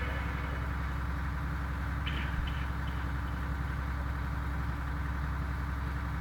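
Steady low electrical hum with light hiss, the background noise of an old recording, with a couple of faint short sounds about two seconds in.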